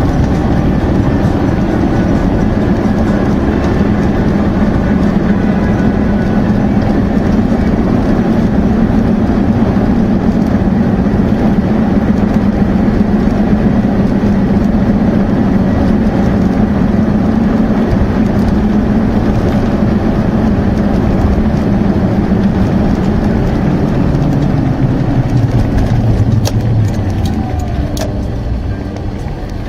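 Car engine and road noise picked up from inside a moving car: a steady drone. Near the end the engine note drops lower and the sound fades as the car slows.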